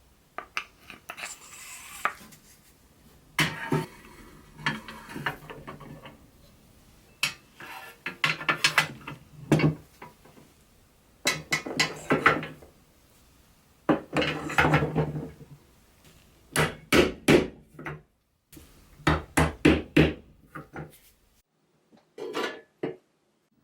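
Irregular clinks, taps and knocks of metal parts and hand tools being handled and struck, coming in short bursts with pauses between.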